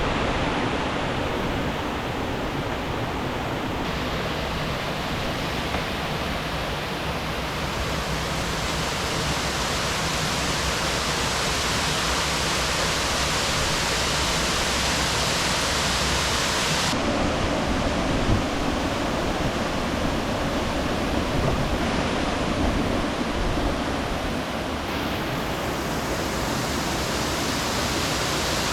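Rushing river water, a steady full hiss of flowing water and small falls, changing abruptly in tone at a few points.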